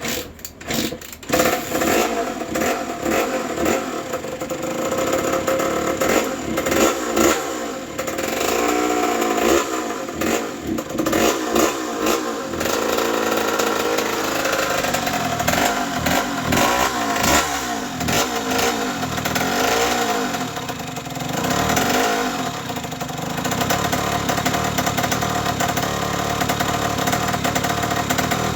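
1984 Honda CR80R's single-cylinder two-stroke engine firing up on its first start after a rebuild, then revved up and down over and over before settling into a steadier run for the last few seconds.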